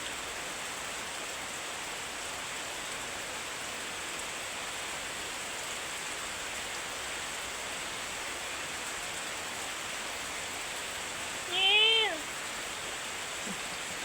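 Steady rain falling. About twelve seconds in, a single short animal call, rising then falling in pitch, is the loudest sound.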